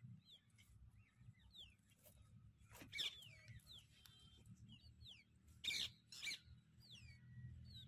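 Small birds chirping repeatedly in short falling and curving notes, faint, with three louder short sharp sounds about three seconds in and twice near six seconds.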